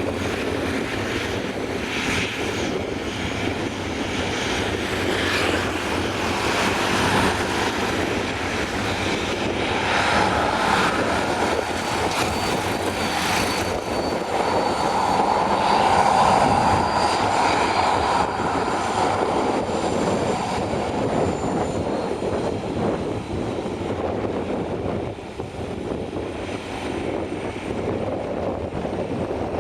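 Airliner engines running as an aircraft passes, a steady roar that builds to its loudest about halfway through and then eases, with a faint high whine near the middle. Gusts of wind buffet the microphone.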